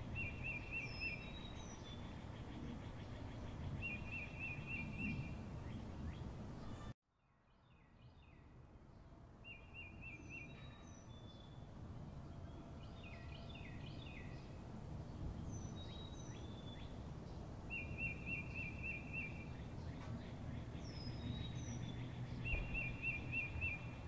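Birds calling over a steady low outdoor rumble: a short trilled call repeated every few seconds, with brief higher chirps between. The whole track cuts out abruptly about seven seconds in and fades back in over the next few seconds.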